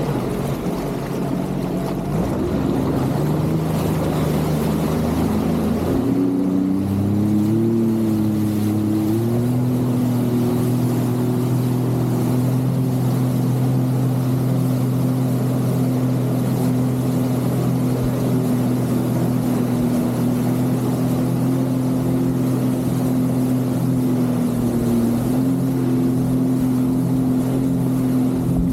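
Jet ski engine running, its pitch climbing in steps over the first several seconds as it speeds up, then holding a steady cruising note with a brief dip near the end.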